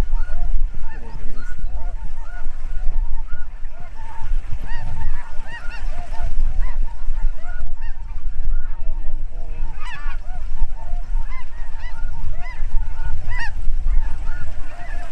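A large flock of snow geese calling, many short high-pitched honks overlapping without pause, with a steady low rumble underneath.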